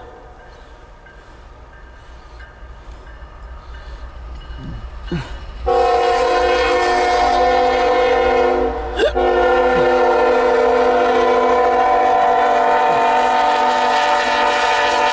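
Approaching CSX freight locomotive, first a low rumble, then its air horn sounding a loud chord of several notes from about six seconds in, with a short break around nine seconds before a second long blast.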